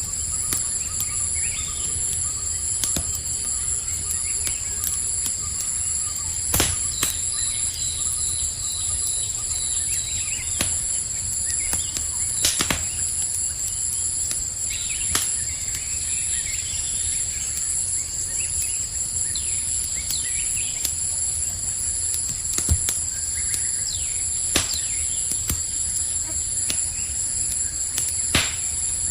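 Campfire crackling, with sharp pops every few seconds over a low steady rumble of flames, against a constant high chorus of crickets; short chirping bird calls come in now and then.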